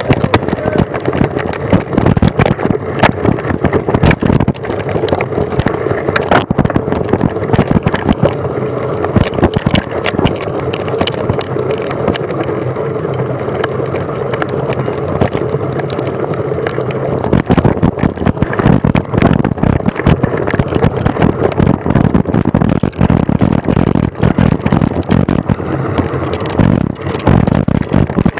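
Mountain bike riding fast over rough ground, heard close on the rider's own camera: steady wind rush on the microphone with frequent knocks and rattles from bumps.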